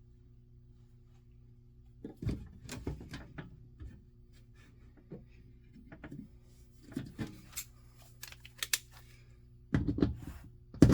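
Scattered small clicks, taps and rustles of hands working on wiring and tools at the panel, over a steady low electrical hum. They begin about two seconds in and grow busier and louder near the end.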